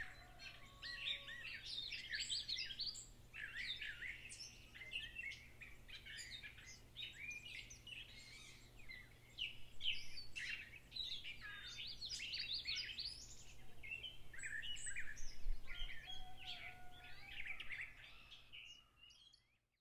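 Birds chirping and singing, many short overlapping calls, fading out near the end.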